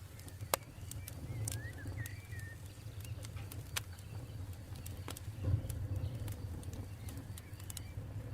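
Campfire burning: sharp wood crackles and pops over a low steady rumble, with one loud pop about half a second in. A few faint chirps come through near two seconds in.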